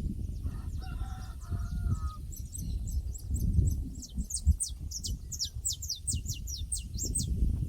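A domestic fowl calls once, for about a second and a half. A small bird then sings a rapid run of high, down-slurred chirps for about five seconds. Under both runs a steady low rumble.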